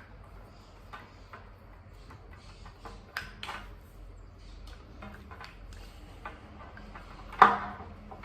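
Handling noises from unboxing a leather jump rope: scattered small clicks and taps of the rope, its handles and packaging, with one louder knock about seven seconds in.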